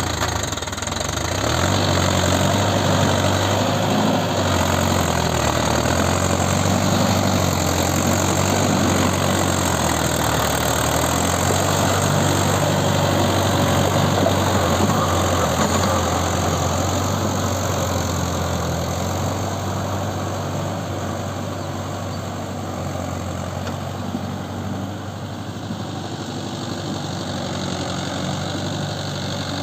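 Mahindra Yuvo 575 4WD tractor's diesel engine running steadily, easing off a little in the last third.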